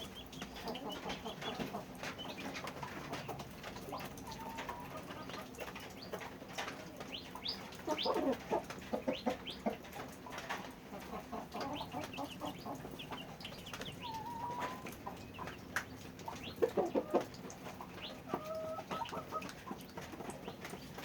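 Chickens clucking, with denser bursts of quick calls about eight and seventeen seconds in, among scattered clicks and a steady low hum.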